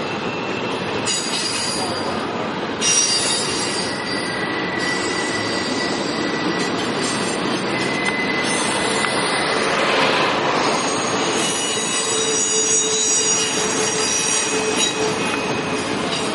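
Double-stack intermodal freight train rolling past, its well cars making a steady rumble on the rails, with high-pitched wheel squeal coming and going.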